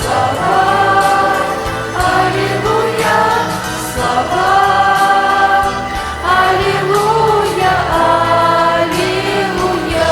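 Teenage choir singing with instrumental accompaniment, in long held notes that bend in phrases of about two seconds each.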